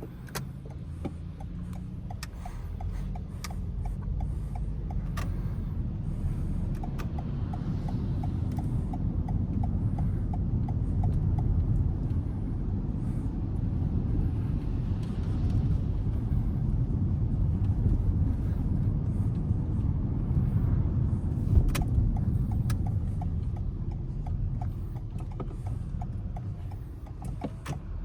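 A car driving in city traffic: a steady low rumble of engine and tyres that grows louder toward the middle and eases off near the end. A light, regular ticking comes in two stretches, one early and one late.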